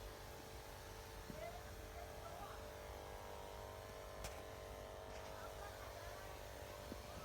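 Crop sprayer's motor running at a steady hum, with faint voices in the distance.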